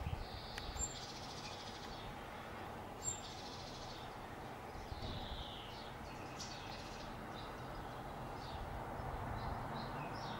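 Songbirds singing short, high phrases that recur every few seconds, over a steady low background hiss.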